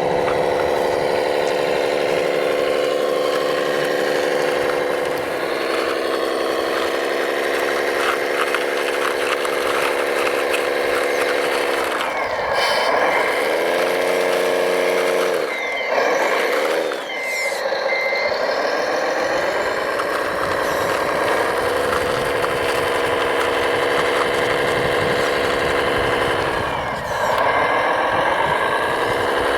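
Engine sound of a radio-controlled construction truck, running steadily, with the pitch dipping and climbing again about twelve seconds in and near the end. A few short reversing beeps sound around the middle.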